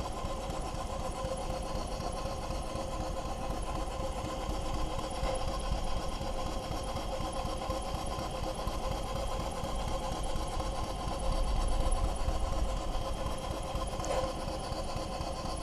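Model Fowler steam traction engine running under steam, a rapid, steady mechanical beat with a continuous even tone over it, a little louder for a moment about twelve seconds in.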